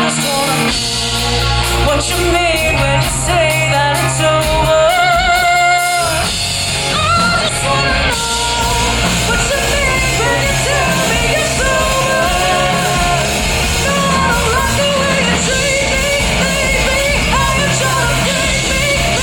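A rock band playing live in a large room, a singer's voice with vibrato over the band and drums, the band filling out and getting busier after about eight seconds.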